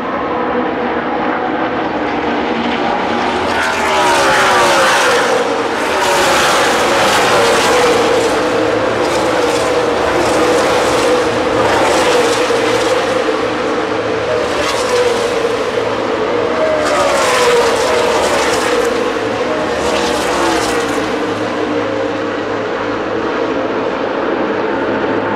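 A field of NASCAR stock cars racing past at speed, their V8 engines running hard. Car after car sweeps by, each one's pitch dropping as it passes, over the steady drone of the pack.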